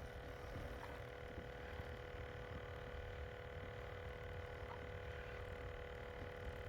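Faint steady hum made of several even tones, over a low rumble.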